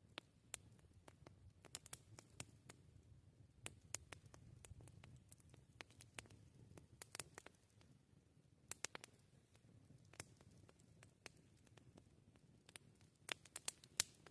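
Wood campfire crackling: irregular sharp snaps and pops of burning wood, some in quick clusters, the loudest run near the end, over a faint low rumble of the flames.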